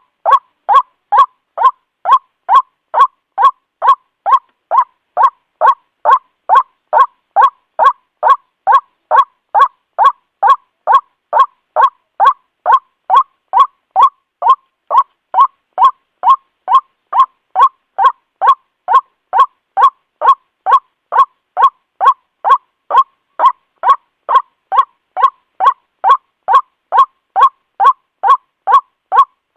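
White-breasted waterhen calling a short, loud, clear note over and over, about two a second, in a steady even series with silence between the notes.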